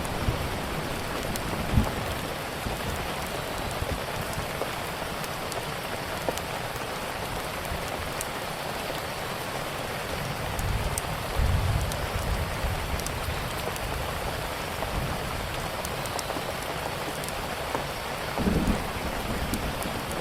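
Steady rain hiss layered with sharp crackles and pops from a wood fire. A few brief low rumbles come through, one about halfway and one near the end.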